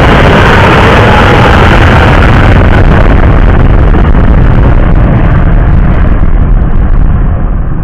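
Boeing 777-300ER's GE90-115B jet engines at takeoff power: a loud, steady rumble with a faint whine drifting slightly lower, beginning to fade near the end.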